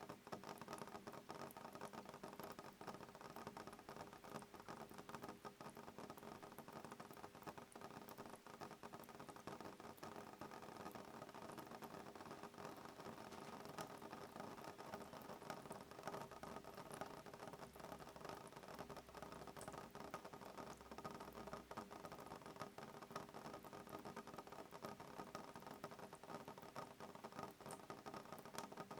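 Soft rain pattering on a window pane: a steady, faint run of fine drop ticks.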